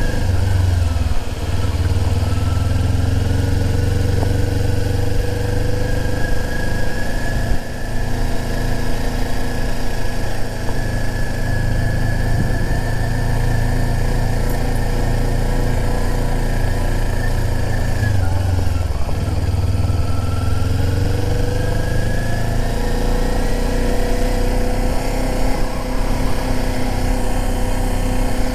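Sport bike engine running at low speed in first gear. Its pitch rises slowly, falls away about eighteen seconds in as the throttle eases, then rises again. A heavy, steady low rumble runs under it.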